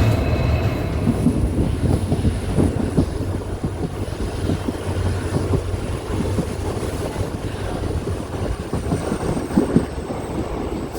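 A train running along the track: a steady low rumble with irregular clatter and knocks from the wheels and cars.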